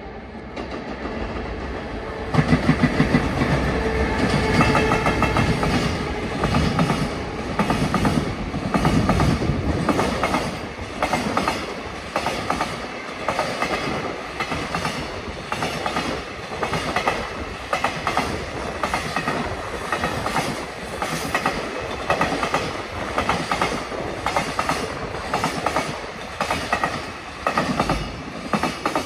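JR Freight container train hauled by an EF210 electric locomotive passing, its wagon wheels clacking over rail joints in a steady rhythm. It grows loud about two seconds in and keeps running.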